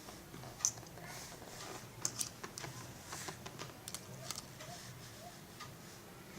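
Small, irregular clicks and taps of a die-cast model airliner being handled and fitted onto its display stand. There is a sharp click under a second in and a quick cluster of clicks around two seconds in.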